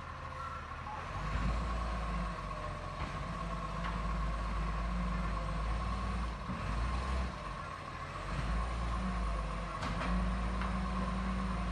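Garbage truck engine running, growing louder about a second in, with a steady high whine over it and a few sharp knocks.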